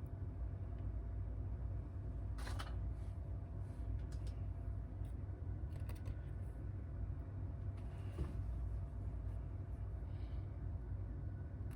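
A few light, sharp clicks and small handling sounds, spaced a couple of seconds apart, over a steady low hum.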